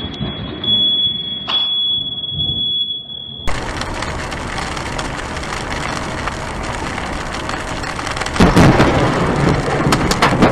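Thunderstorm: heavy rain with a loud thunderclap and rumble about eight and a half seconds in. Before that, a steady high-pitched tone is broken by a sharp crack about a second and a half in, and the sound cuts abruptly to the rain at about three and a half seconds.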